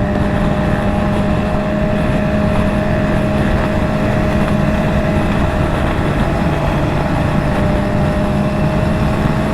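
Motorcycle engine running at a steady cruise, with a constant rush of wind and road noise.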